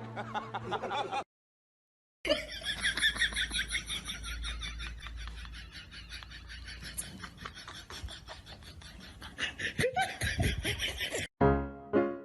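Laughter over music, broken by about a second of dead silence shortly after the start. Near the end the music changes to evenly spaced notes with a steady beat.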